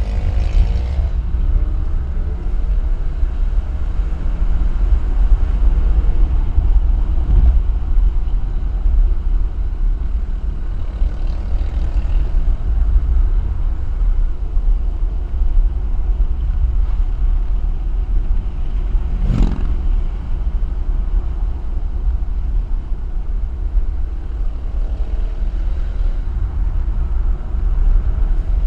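Steady low rumble of wind and road noise on a camera riding with a moving car, with engines faintly revving up and down near the start and again about twelve seconds in. A brief sharp whoosh stands out about twenty seconds in.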